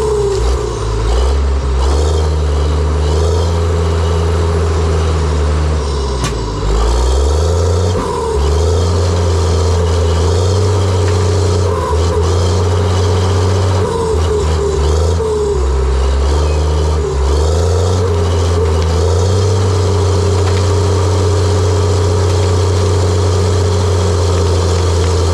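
John Deere 700J-II crawler dozer's diesel engine running loud and steady under work, its low note dipping briefly and recovering several times. One sharp knock sounds about six seconds in.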